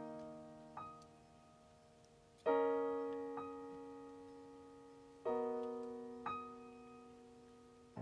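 Synthesizer on a piano sound playing slow chords: three chords about two and a half seconds apart, each joined by a higher note about a second later and left to ring and fade.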